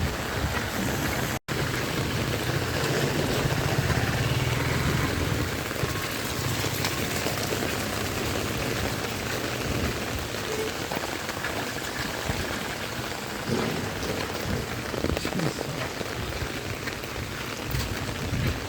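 Heavy rain pouring down, a dense steady hiss, with a low rumble under it for the first few seconds. The sound cuts out completely for an instant about a second and a half in.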